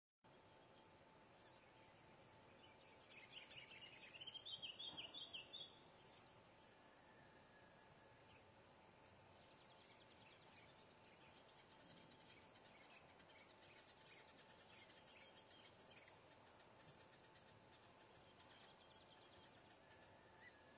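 Faint high-pitched chirps and quick trills of small birds, busiest and loudest in the first few seconds and then settling into rapid repeated pulses.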